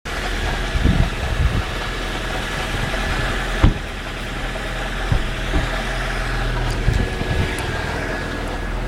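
Nissan SR20DE 2.0-litre four-cylinder engine idling steadily, with irregular short thuds coming through the idle every second or so: an unidentified engine noise that the owner cannot place.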